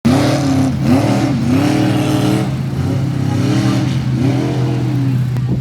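Mud bog truck engine revving up and down over and over, the pitch climbing and dropping about once a second, over a steady lower engine drone.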